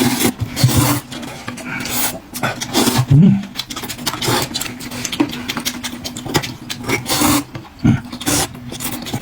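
A person eating a bowl of rice noodles, with noisy slurping and chewing in quick irregular bursts.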